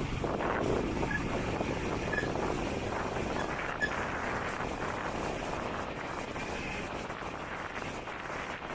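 Motorcycle ride: steady engine and road noise mixed with wind buffeting the microphone.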